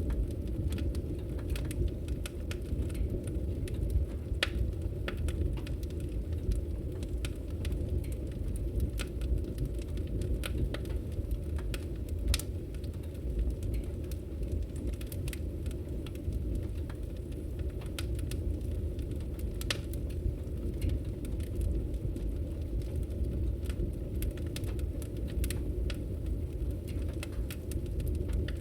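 Wood fire burning steadily, a low rumble of flames with frequent irregular sharp crackles and pops.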